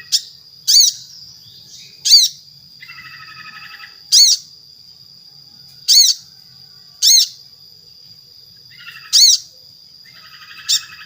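Sunbird (sogon) calls: sharp, loud high 'shot' notes about every one to two seconds, eight in all. Between them come bursts of rapid buzzy chattering, the calls used to lure other sogon into calling.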